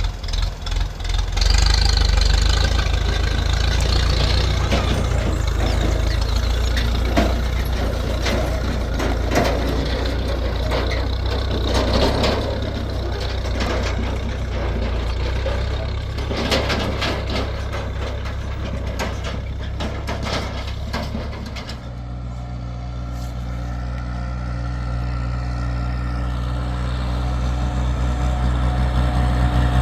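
A motor vehicle's engine running, with knocks and rattles over it; about two-thirds of the way through it settles into a steadier, even hum.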